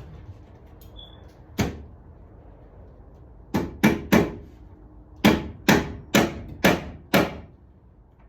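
A series of about nine sharp knocks or snaps: one on its own, then a quick run of three, then five more at roughly half-second spacing.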